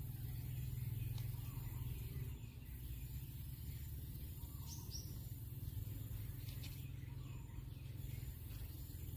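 A few short, high, falling bird chirps over a steady low hum and outdoor ambience.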